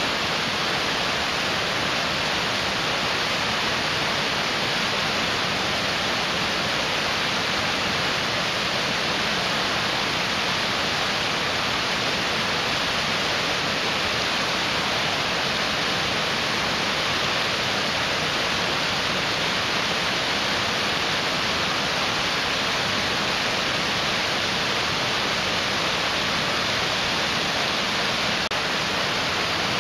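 Mountain stream rushing over rocks: a steady, unbroken hiss of water.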